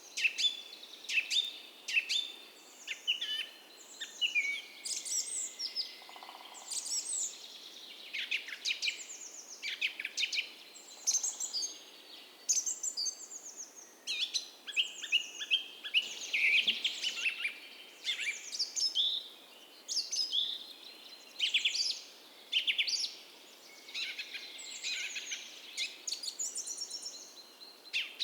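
A dawn chorus of several songbirds, dense overlapping chirps and short falling whistled phrases one after another, over a faint steady hiss of a gentle creek.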